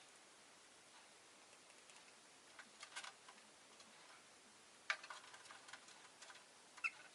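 Faint clicking and tapping from a rosy-faced lovebird, in a small cluster about three seconds in and a sharper, louder click about five seconds in followed by a patter of light ticks, with a brief high chirp near the end.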